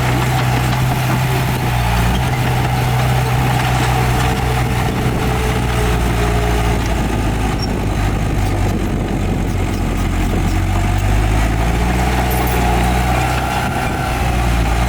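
Heavy diesel earthmoving machinery running steadily with a deep, even engine note and a steady higher whine above it.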